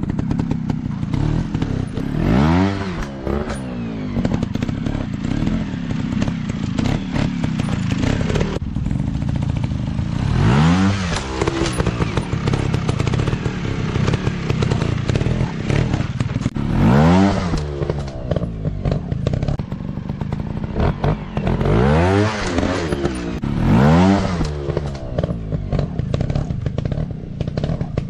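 Off-road dirt bike engine running hard, its revs rising and falling several times as the throttle is opened and closed, with mechanical clatter throughout.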